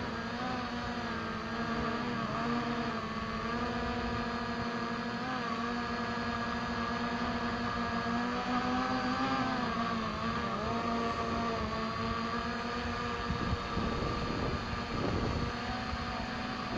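Quadcopter drone hovering, its propellers giving a steady buzzing hum of several tones that wobbles slightly in pitch a few times and thins out near the end.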